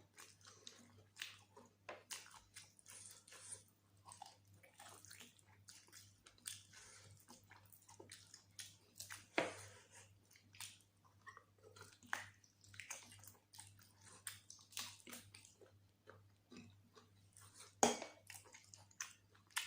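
Close-up chewing and mouth sounds of someone eating mutton curry with rice: irregular wet smacks and small crunches, with two sharper clicks, about halfway through and near the end.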